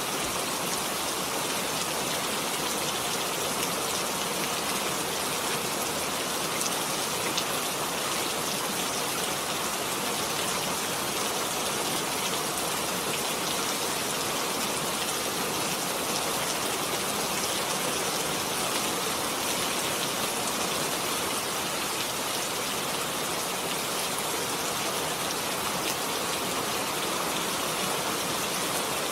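Heavy rain falling steadily, an even hiss with dense pattering drops.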